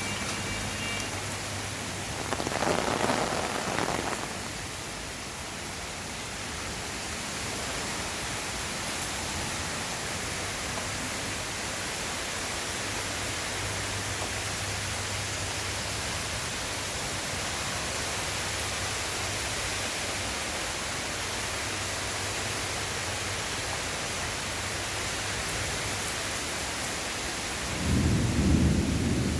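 Heavy rain falling steadily in a thunderstorm, with a brief louder surge about three seconds in. Near the end a deep rumble of thunder rolls in.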